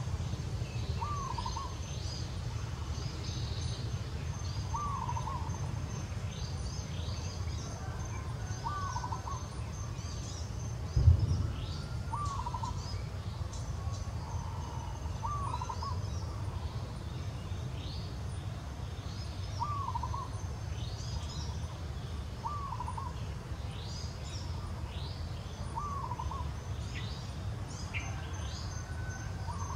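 A bird repeating a short hooting call about every two to three seconds, with fainter chirps from other birds higher up, over a steady low rumble. One sharp thump about eleven seconds in is the loudest sound.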